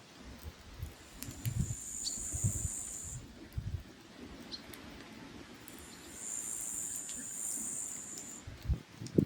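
Firewood burning in a mangal, crackling with scattered sharp pops and a few soft low thuds. An insect stridulates in two high-pitched buzzing stretches of a couple of seconds each.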